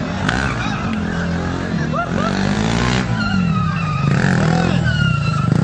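Motorcycle engine running and revving, its pitch rising and falling, getting louder about four seconds in, with voices calling over it.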